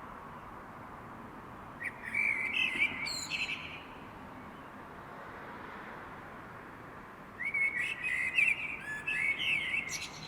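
A songbird singing at night: two warbled song phrases of about two seconds each, one a couple of seconds in and one near the end, each ending in higher twittering notes, over a steady background hiss.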